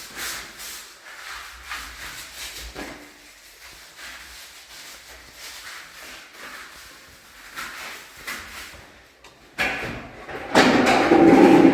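Repeated rubbing strokes by hand on a door or window frame, the steady back-and-forth of sanding or scrubbing it before painting. Near the end comes a sudden louder scraping sound.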